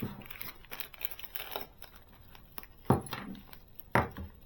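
Rustling and clicking of small model motorcycle parts being handled during assembly, then two sharp knocks about a second apart.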